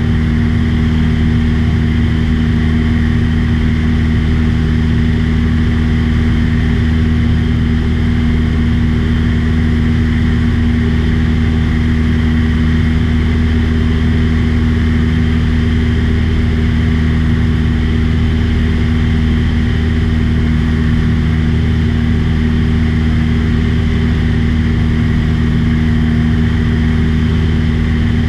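Light aircraft's piston engine and propeller running steadily at cruise, a loud, unchanging low-pitched hum.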